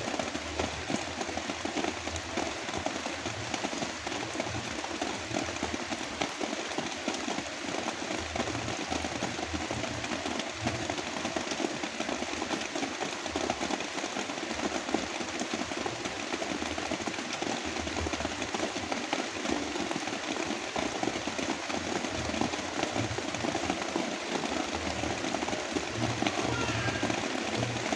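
Heavy rain falling in a dense, steady patter, with brown noise mixed in as a low rumble underneath.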